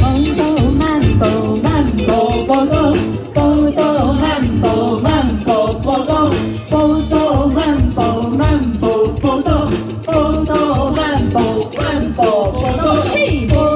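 Live band music: a Taiwanese-language song in a mambo rhythm, a melody line carried over a steady drum beat.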